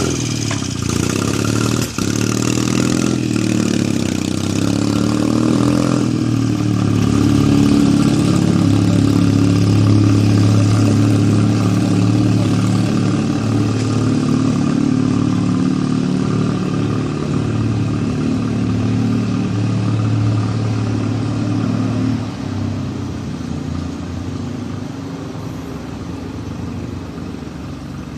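1937 Zündapp KS 600 motorcycle's flat-twin engine running at a steady speed. It is a little louder for a while in the middle and eases off near the end.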